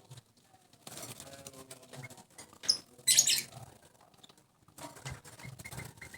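A yellow-vented bulbul gives short high chirps and a brief harsh call about three seconds in, amid faint scattered clicks.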